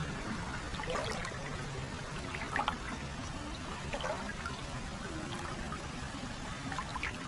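Hot-spring water pouring and trickling steadily into a foot bath.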